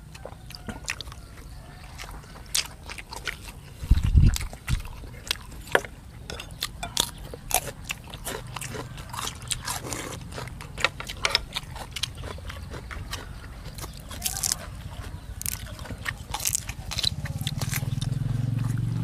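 Close-up eating sounds: chewing, wet mouth smacks and clicks as grilled beef and fresh herbs are eaten. A dull thump comes about four seconds in, and a low hum builds near the end.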